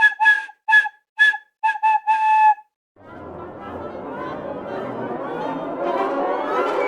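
A run of six short whistle- or flute-like notes on one pitch, the last held a little longer. After a short silence comes a dense swell of many tones sliding upward and growing louder.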